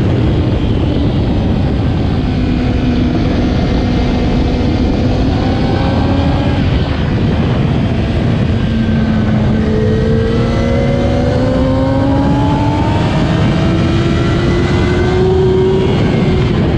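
2008 Kawasaki ZX-10R's inline-four engine at race pace: its note slides lower for several seconds as the bike slows, then climbs steadily under hard acceleration and drops back near the end at a gear change, over a steady rushing noise.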